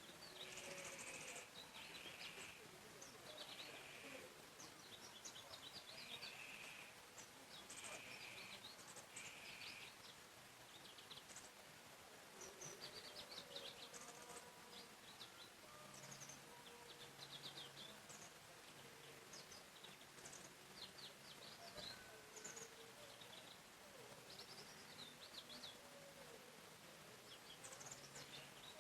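Faint forest ambience full of songbirds chirping and trilling, several at once. In the first ten seconds a buzzy call repeats about every second or two.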